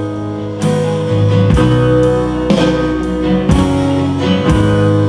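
Instrumental worship-band music: guitar strumming chords over a steady bass, changing chord about once a second, with no singing.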